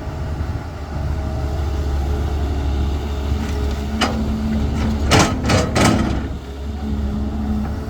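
Heavy diesel engine of a CAT 320 excavator running steadily, with a sharp knock about four seconds in and three louder clanks in quick succession a second later.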